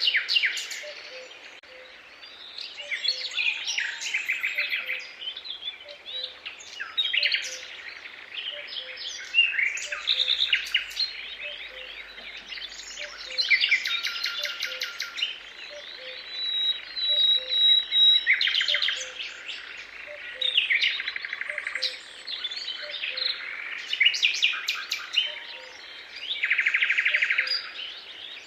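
Several songbirds singing at once: overlapping trills, warbles and chirps, one after another without a break, with a faint low note repeating about once a second underneath.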